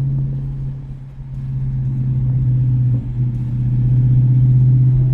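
2024 Mustang GT's 5.0 V8 running through an X-pipe with the mufflers deleted, a steady deep drone. It dips briefly twice and then grows louder.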